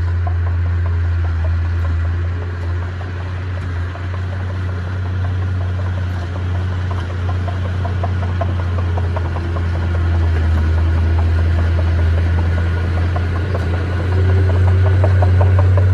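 Bulldozer diesel engine running with a steady low drone, with a rapid clatter joining in from about six seconds in and growing a little louder near the end.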